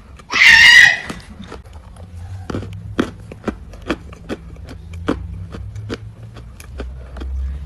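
Chalk or clay crunching in a string of sharp, irregular cracks over a low hum. A loud, brief high-pitched sound comes shortly after the start.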